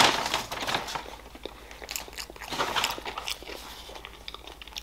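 Close-miked chewing of a mouthful of sushi roll: wet mouth clicks and smacks, loudest right at the start, with another cluster of chewing sounds about halfway through.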